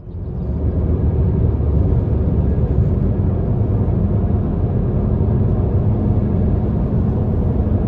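An engine running steadily with a low rumble, cutting in suddenly at the start and fading out about a second after the end.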